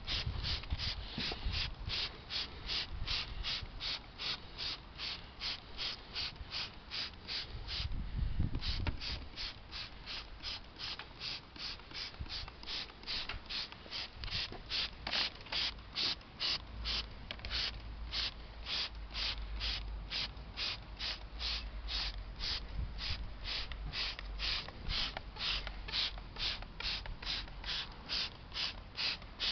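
Trigger spray bottle of engine degreaser squeezed over and over, one short hiss of spray per squeeze, about two to three squirts a second, with a brief pause about eight seconds in.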